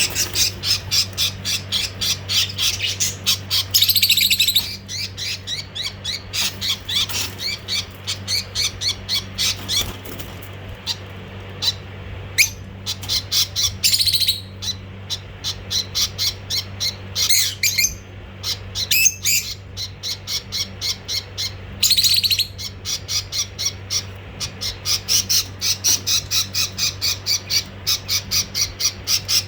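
Budgerigars calling: a rapid run of short high chirps, several a second, broken a few times by louder harsh squawks, over a steady low hum.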